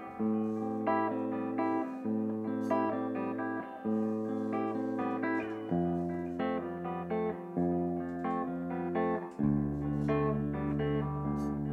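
Guitar music, no singing: picked notes ring over a held bass note, and the chord changes about every two seconds.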